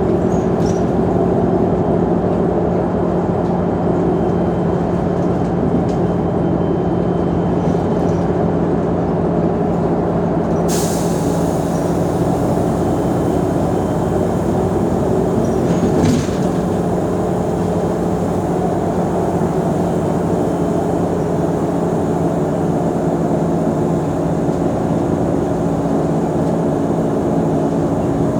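Mercedes-Benz O345 Conecto G articulated bus's engine running steadily. A sudden hiss of compressed air comes about eleven seconds in, and a shorter one about sixteen seconds in.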